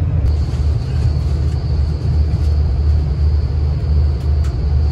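Interior of a diesel passenger train running at speed: a steady low rumble with a thin high whine that sets in just after the start, and a couple of faint clicks near the end.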